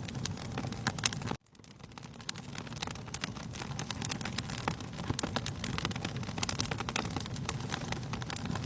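Wood fire crackling, with frequent sharp pops over a steady low rumble. About a second and a half in the sound cuts out abruptly, then fades back in over the next couple of seconds.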